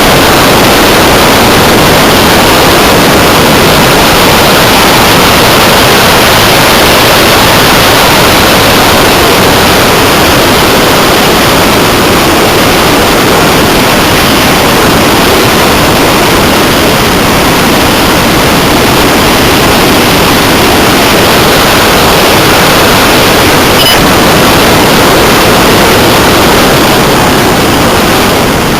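Loud, steady rushing of airflow and propeller noise on a small camera mounted on an electric RC hotliner in flight, close to clipping, with no clear motor whine.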